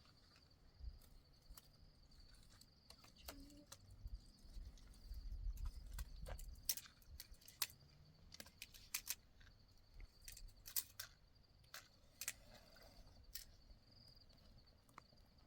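Faint, steady high chirring of crickets, with scattered sharp clicks and knocks and a short low rumble about five seconds in.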